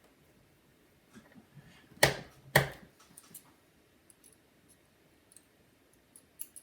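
Two sharp clicks about half a second apart, with a few faint ticks before and after: small parts and tools being handled while working inside a laptop.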